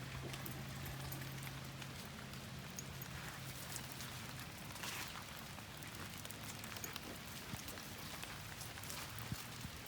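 Steady rain falling, with many scattered small drop ticks. A low steady hum runs underneath, fading out about four seconds in and coming back near the end.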